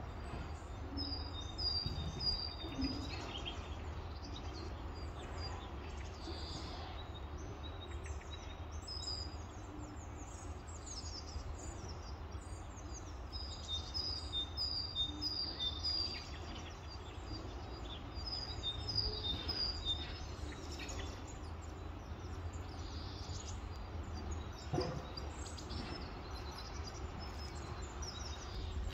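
Songbirds chirping: runs of short, high, repeated notes, several in quick succession, coming back a few times over a steady low background rumble.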